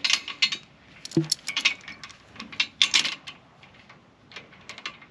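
Steel logging chain clinking and rattling in several short bursts as it is wrapped around a log.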